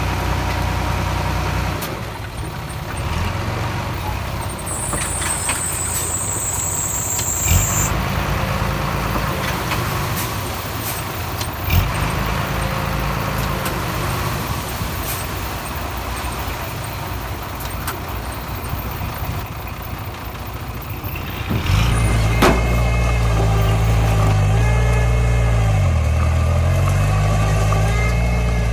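Diesel engine of earth-moving machinery running, with a couple of sharp knocks. About 22 s in it gets louder and its pitch rises and falls as the engine is worked harder.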